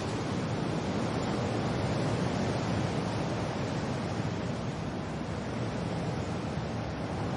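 Steady rushing wind and rain noise, deep and dense, swelling slightly and easing back.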